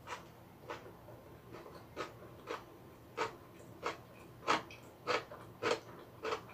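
Close-miked wet chewing and lip smacks of someone eating, a short smack about every half second to two-thirds of a second, growing louder in the second half.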